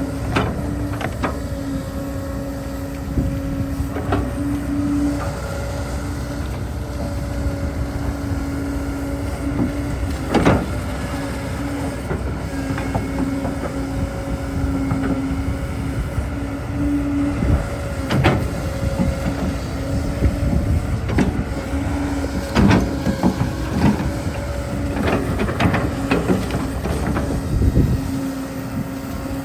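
Excavator digging: a steady machine hum that starts and stops several times, over a low rumble, with scattered knocks and clatters of the bucket and dirt.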